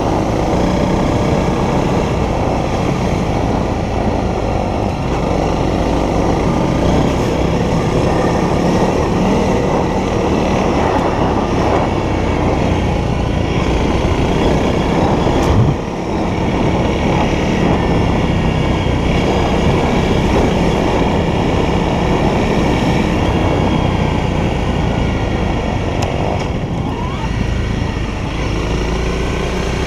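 Honda CRF300L's single-cylinder four-stroke engine running steadily as the motorcycle rides along, with a brief dip in level about halfway through.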